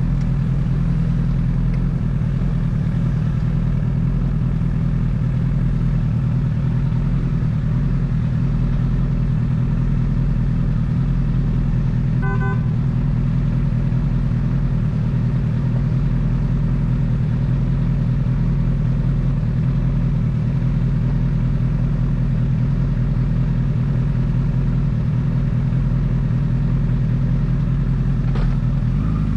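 Honda CBR1000RR's inline-four engine running at a steady engine speed with an even, unchanging note. About twelve seconds in, a car horn gives a short honk.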